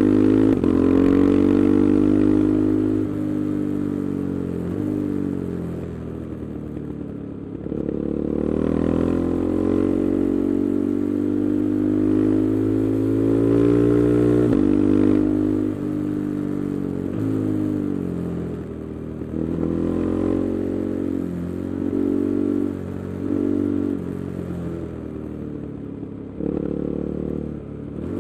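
KTM 390 Adventure's single-cylinder engine, on an Arrow exhaust with the resonator removed, being ridden. The revs climb under throttle and fall back off it many times.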